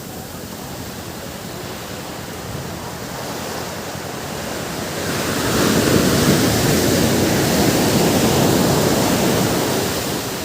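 Ocean surf on a beach: a steady wash of waves that swells about halfway through as a wave breaks, stays loud for several seconds, then eases near the end.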